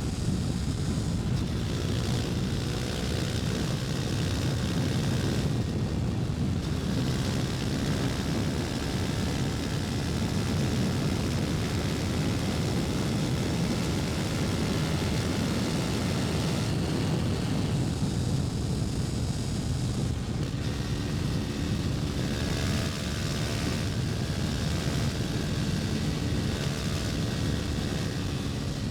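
KTM Duke 250's single-cylinder four-stroke engine running steadily while riding, under a constant rushing noise, its engine note shifting slightly in pitch now and then.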